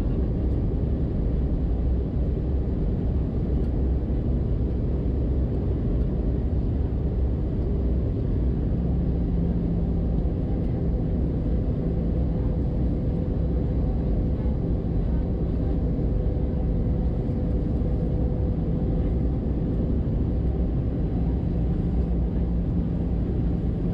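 Steady jet engine and airflow rumble inside the cabin of an Airbus A320-212 in flight. A steady low hum joins about nine seconds in.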